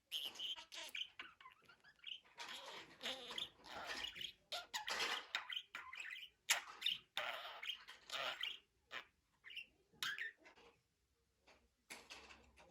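Budgerigar chattering and warbling in quick runs of chirps and squawky notes, with a short pause near the end.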